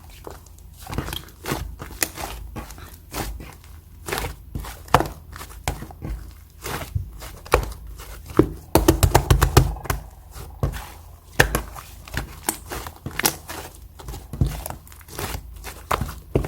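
Hands squishing, pressing and stretching a sticky, fluffy clay slime, giving a steady run of wet clicks and pops. A dense burst of crackling pops comes about nine seconds in.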